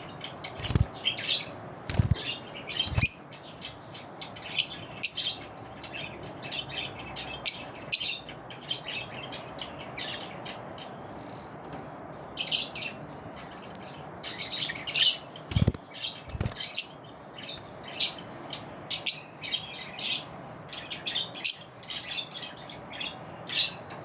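Pet lovebirds chattering: many short, sharp chirps and squeaks in quick irregular runs, with a few soft low thumps in between.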